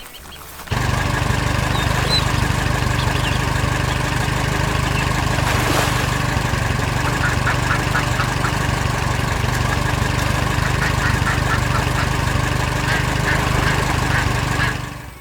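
A big harvester's engine running steadily: a low, even rumble with a faint steady whine above it. It cuts in abruptly under a second in and fades out near the end.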